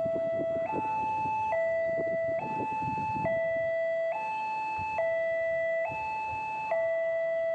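Railway level-crossing warning alarm: an electronic two-tone signal alternating steadily between a lower and a higher tone, each held just under a second, the warning that a train is approaching. Rumbling with irregular knocks sounds under it for the first few seconds.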